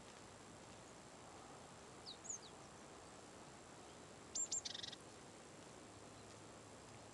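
Small songbirds calling: a few short high chirps about two seconds in, then two high whistled notes and a quick trill around four and a half seconds in, over a faint steady hiss.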